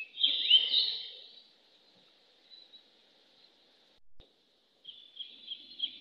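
Birds chirping: a loud burst of quick sweeping calls near the start, then a run of short high chirps near the end, over a faint steady high-pitched background. The sound briefly cuts out about four seconds in.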